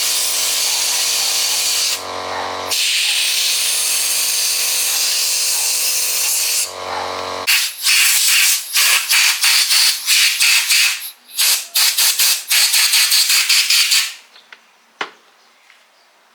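A loud steady hiss of rushing air over a machine's steady hum. After the hum stops, short hissing bursts follow in quick succession, then stop sharply about fourteen seconds in.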